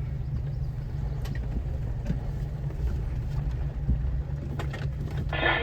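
Off-road vehicle's engine running at low speed, a steady low rumble heard from inside the cab, with a few faint ticks.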